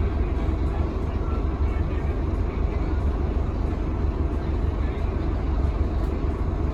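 Inside a Scania K310UB bus: the Scania DC9 diesel engine running with a steady low rumble under an even haze of ride noise.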